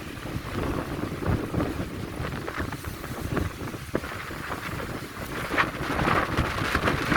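Strong, gusty wind buffeting the microphone, with a stronger gust near the end.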